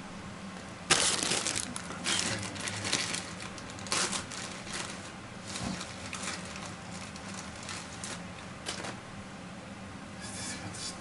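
Irregular crinkling and rustling bursts of hands working gasket material while refitting a steam boiler, the sharpest about a second in, over a faint steady low hum.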